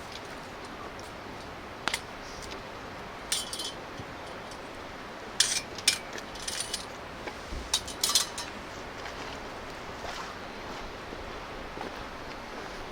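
Metal camp gear being handled: a handful of short, sharp clinks and clatters between about two and eight seconds in, over a steady background hiss.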